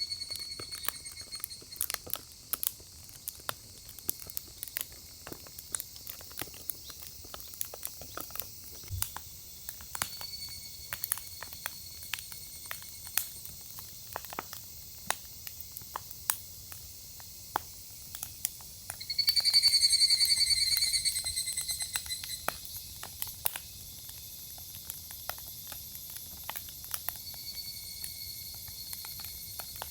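Firewood burning in a fire pit, crackling with irregular sharp pops. A high whistling tone comes and goes several times, loudest about two-thirds of the way in.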